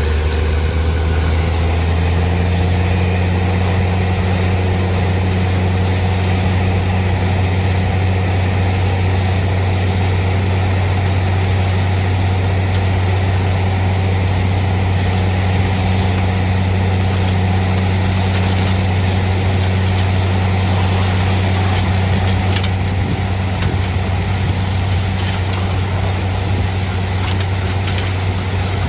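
Borewell drilling rig's engine running steadily: a loud, unbroken deep drone, with a few faint clicks near the end.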